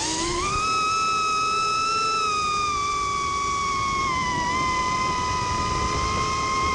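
Brushless motors of an ImmersionRC Vortex 150 mini quadcopter. They whine, climbing quickly in pitch as they spool up, then hold a high, fairly steady whine that sags slightly about four seconds in.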